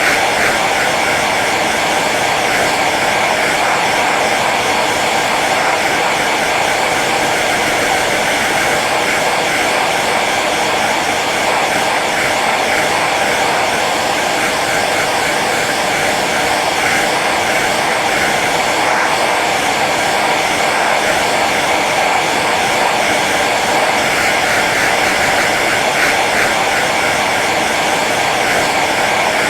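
Hair dryer running on its low setting: a steady, unchanging rush of air with a faint motor hum.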